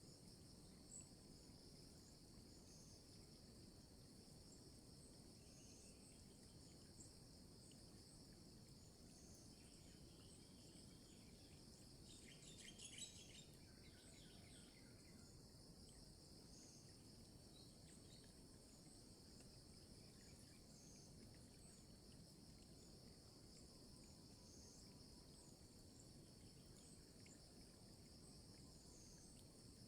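Faint, steady chorus of insects, with a brief burst of bird chirping about twelve seconds in.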